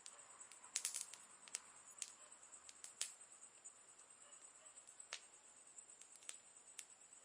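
Campfire burning quietly with irregular sharp crackles and pops from the burning wood, including a quick run of several pops about a second in, over a steady high hiss.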